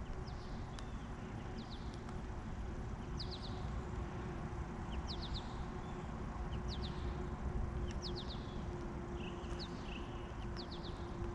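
A small bird chirping: short, high, downward-slurred notes in quick runs of two to four, about once a second, over a faint steady low hum.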